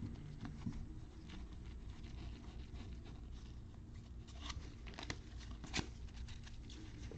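Trading cards being handled at a table: scattered soft clicks, taps and rustles of cards and packaging, with a few sharper ticks around the middle and towards the end.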